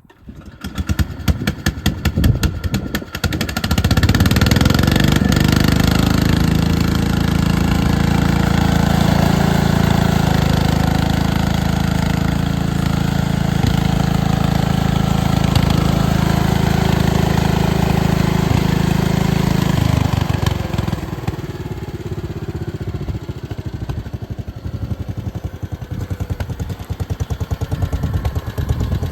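Case 222 lawn tractor engine cranking and catching in the first few seconds, then running steadily at high throttle. About twenty seconds in it is throttled down and runs on more quietly at idle.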